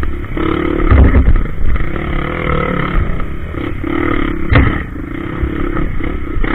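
Trail motorcycle engine running under a rider on a rough dirt trail, its pitch rising and falling with the throttle, with two heavy knocks about one second in and past the middle.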